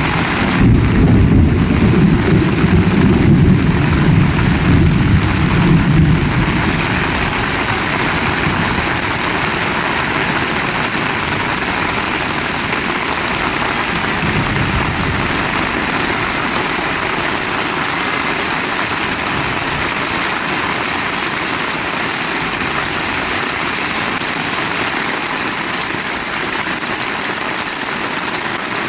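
Heavy rain falling steadily. A deep rumble runs under it for about the first six seconds, with a fainter one about halfway through.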